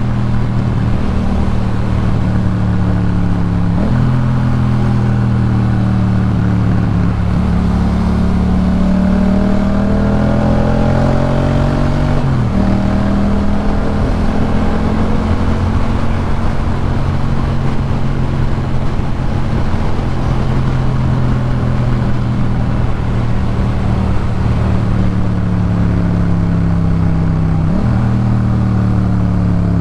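2018 Yamaha MT-07's parallel-twin engine running through a Jeskap K4 full exhaust while riding. The engine note climbs slowly and drops sharply three times, about four, twelve and twenty-eight seconds in, as gears are changed.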